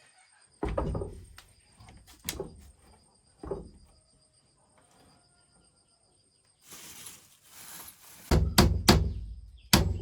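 Wooden construction work: a few single hollow knocks, a brief scraping hiss, then fast hammer blows on wood, several a second, beginning near the end.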